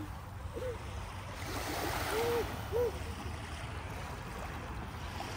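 Lake water washing at the shore under steady wind on the microphone, with a wave surging up about one and a half seconds in. Three short faint hoot-like calls are heard, one early and two close together past the middle.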